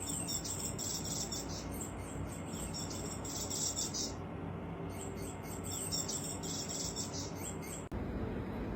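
Small birds chirping in rapid high-pitched trills, in two bouts about four and three seconds long, over a steady background hum; the chirping stops abruptly about eight seconds in.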